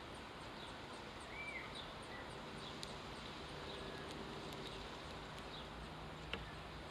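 Quiet garden ambience with a single short sparrow chirp about a second and a half in and a few faint high ticks. A faint steady low hum comes in about two seconds in and fades out near the end, and there are a couple of small clicks.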